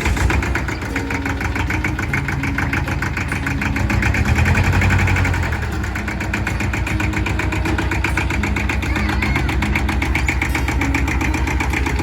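Compact tractor engine running at idle, rising a little for about a second around four seconds in, then settling back to a steady idle.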